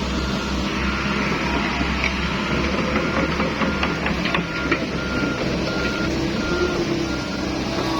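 A heavy vehicle's reversing alarm sounding short beeps at about two a second, over the steady rumble of its engine.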